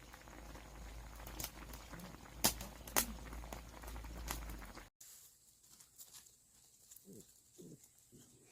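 A dog moving about, with a few sharp clicks and taps, then, after a cut, a few faint short low sounds.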